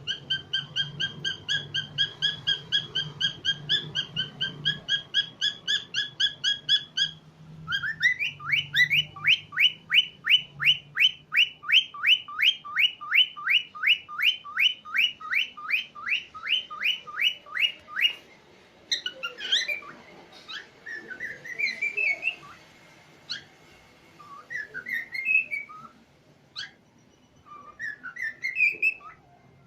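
Cockatiels calling: a rapid run of repeated chirps, about four a second, for the first seven seconds, then an even longer run of short rising notes, then scattered whistles and chirps with pauses between them.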